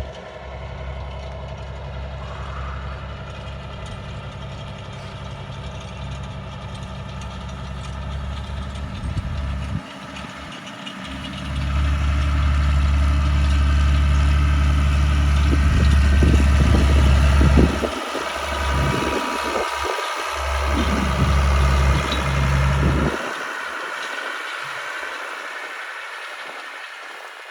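Ford 8210 tractor's six-cylinder diesel engine running steadily while pulling harrows. It grows louder about a third of the way in, then drops away and fades near the end.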